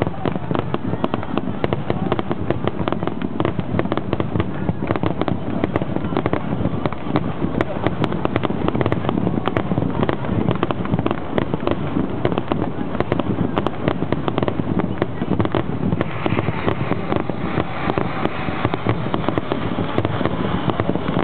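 Aerial fireworks display going off in a dense, continuous barrage of bangs and crackles, many a second.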